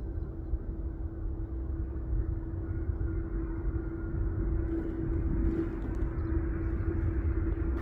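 Jet airliner's engines on approach: a steady low rumble with a constant hum, slowly growing louder.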